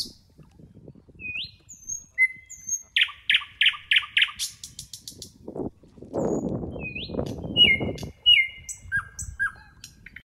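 Several birds chirping and whistling: short rising and falling whistles, with a quick run of about five notes around three to four seconds in. A low rushing noise rises under the calls around six to eight seconds in.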